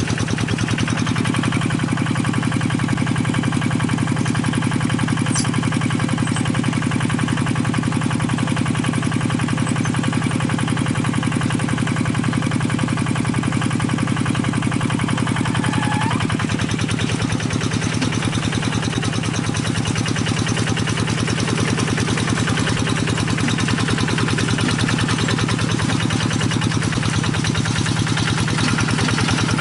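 Single-cylinder diesel engine of a hand-cranked paddy-field tractor running steadily at idle, with an even, rapid firing beat.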